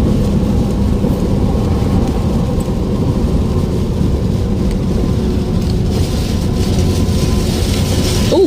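Storm wind and rain: a steady, loud low rumble of wind, with more rain hiss in the last couple of seconds.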